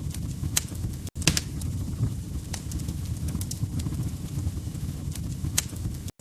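Wood fire crackling in a fireplace: irregular sharp pops and snaps over a steady low rumble of flames, broken by two brief dropouts to silence, about a second in and just before the end.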